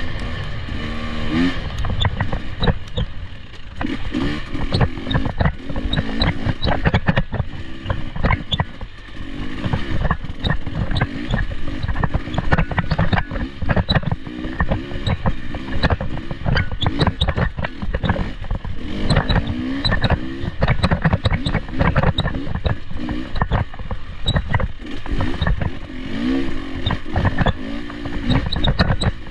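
Off-road vehicle engine revving up and down in short, repeated rises while running over rough ground, with many sharp knocks and clatters.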